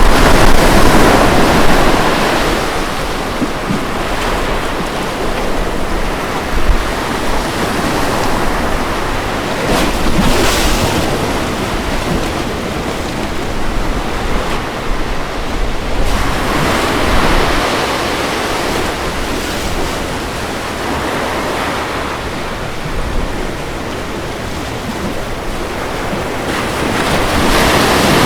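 Ocean surf breaking on a beach: a steady hiss of water that swells with each crashing wave. The biggest surge comes right at the start, with more about ten and seventeen seconds in and another building near the end.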